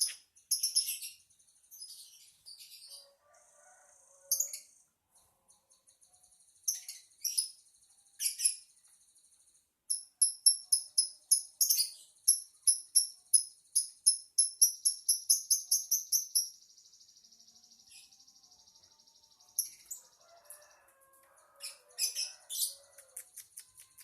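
Lovebird singing: very high chirps in scattered short bursts, then a long, fast run of chirps about halfway through that blurs into a continuous trill for a few seconds.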